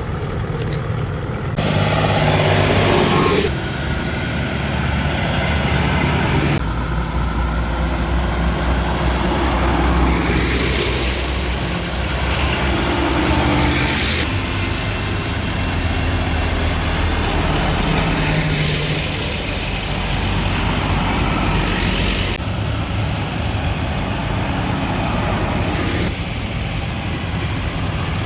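Farm tractor engines running and driving past, heard as a string of short clips that change abruptly every few seconds.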